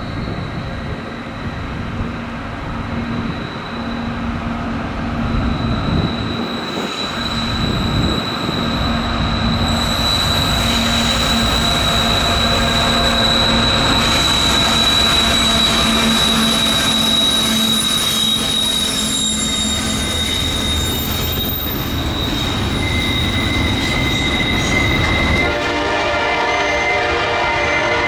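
Norfolk Southern diesel freight train passing, growing louder, with a steady high-pitched wheel squeal for most of its length. Near the end a chord of several steady tones sets in.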